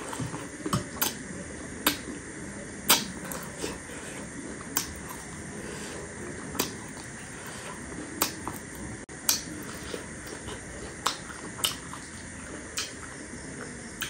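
Close-miked chewing of a mouthful of chatpate: irregular sharp wet mouth clicks and lip smacks, roughly one a second, the loudest about three seconds in, over a steady low hiss.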